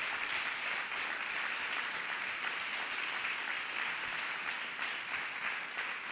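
Congregation applauding: many people clapping together in a dense, steady patter.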